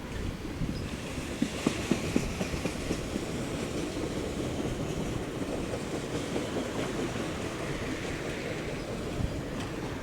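A train rolling past on the BNSF main line, its wheels clattering and rumbling over the rails. A few sharper clanks come about two seconds in.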